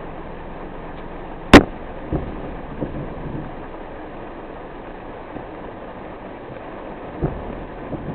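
Steady rain and road noise from a car driving in the rain. About a second and a half in there is one sharp, very loud knock, followed by a few softer knocks.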